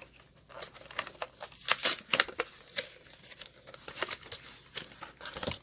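Plastic blister packaging and cardboard backing crinkling and tearing in a series of short, irregular crackles as a die-cast toy car's card pack is opened by hand.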